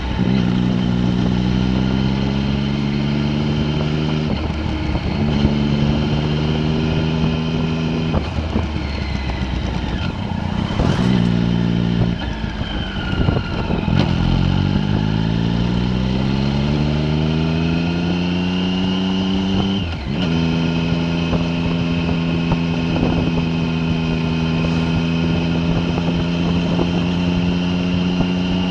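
A vehicle engine heard on board while driving a winding mountain road, its pitch stepping at gear changes. It eases off and drops low around the middle, then rises steadily under acceleration, changes pitch again near two-thirds of the way through, and holds a steady cruise to the end.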